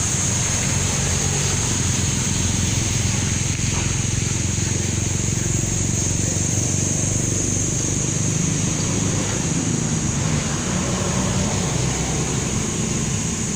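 Steady low rumble and hiss of wind and street noise while cycling, with a constant high-pitched whine over it.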